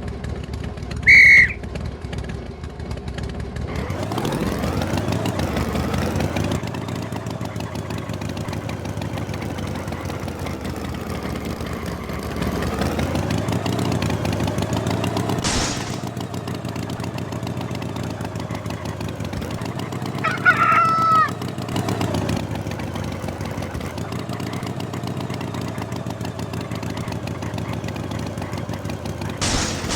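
Cartoon tractor engine running steadily, its pitch rising and falling a few times as it revs. Two short high bird calls cut in, one about a second in and the other about two-thirds of the way through.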